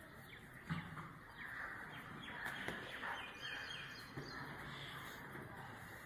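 Small birds chirping repeatedly in quick short calls over a faint steady background noise, with one brief knock just under a second in.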